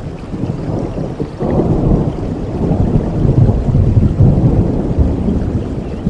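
Thunder rumbling over steady rain, the rumble swelling sharply about a second and a half in and staying loud through the middle.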